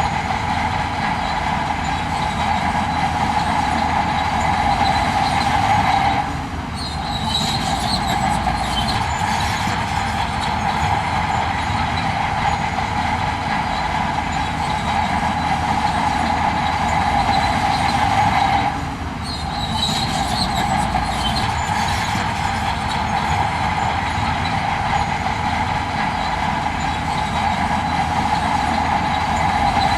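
Heavy earthmoving machinery running and working steadily, with a constant whine over a broad mechanical rumble; the whine drops out briefly about six seconds in and again about nineteen seconds in.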